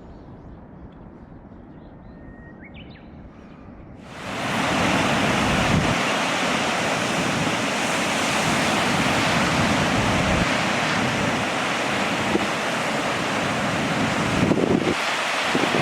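Low outdoor quiet with a faint bird call, then, about four seconds in, a sudden switch to loud, steady surf noise from breaking ocean waves with wind buffeting the microphone.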